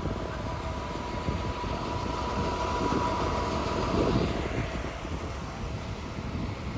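Road traffic with a heavy vehicle, a city bus, going by: a steady low rumble of engine and tyre noise with a thin steady whine, swelling in the middle and easing off.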